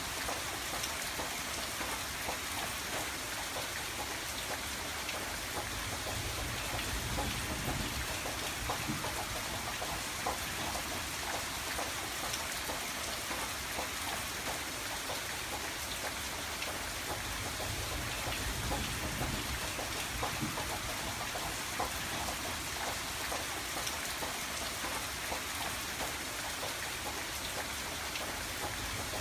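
Steady rain falling and pattering on a window, with many small drop ticks; a soft low rumble swells and fades now and then underneath.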